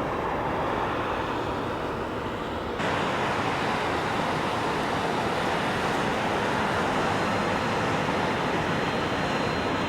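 Steady rushing noise of an Airbus A340 airliner's engines and airflow, with an abrupt step up in level and brightness about three seconds in.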